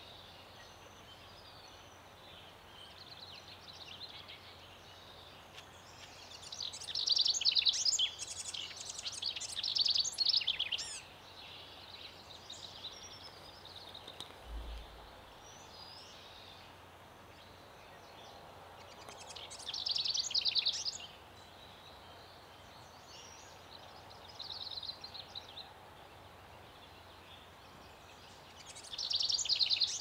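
Wild birds singing in several bursts of rapid, high, trilling notes: a long phrase several seconds in, then shorter ones about two-thirds through and again near the end, over a steady outdoor background hiss.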